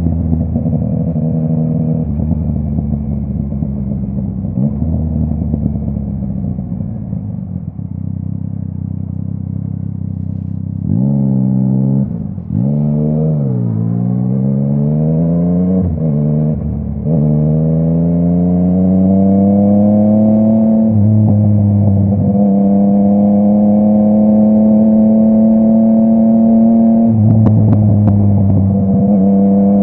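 Yamaha MT-09's three-cylinder engine through a full Akrapovic exhaust, ridden on the road: a steady lower note at first, then about ten seconds in it accelerates through the gears, the pitch climbing and dropping at each upshift. It then settles into a steady, higher cruising note, with a short dip and a few sharp cracks on another shift near the end.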